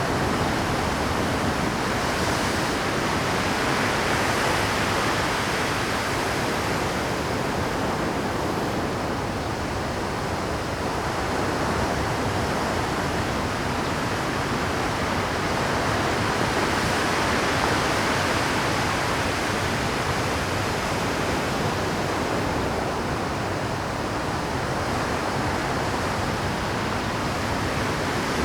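Rough Pacific surf breaking on a rocky shore: a continuous wash of crashing waves that swells gently and falls back, with no single break standing out.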